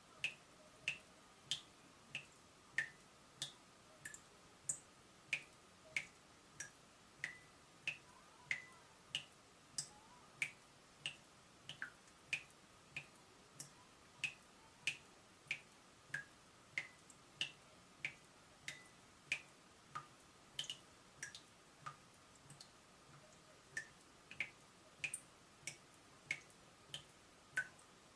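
Leaking tap dripping: single water drops landing in a steady rhythm of about three every two seconds, each a short, sharp plink, with a brief gap about 22 seconds in.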